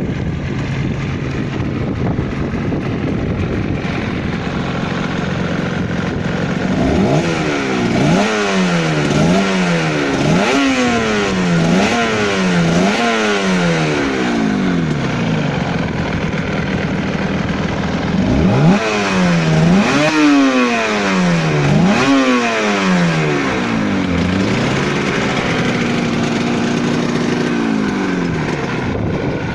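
Two-stroke parallel-twin engine of a 1989 Yamaha TZR250 3MA with Jackal expansion-chamber exhausts, its pitch climbing and dropping again and again in two bouts of revving, with steadier running before, between and near the end.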